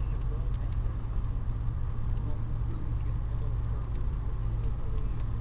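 Car driving, heard from inside the cabin: a steady low road and engine rumble, with faint muffled voices and a few light ticks.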